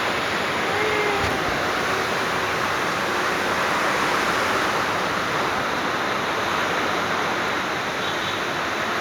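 Rain falling steadily, an even wash of noise without let-up.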